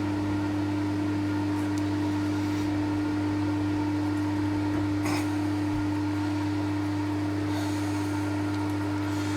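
TOS milling machine running steadily, a constant hum from its motor and spindle turning in reverse for a left-handed drill bit, with one brief click about five seconds in.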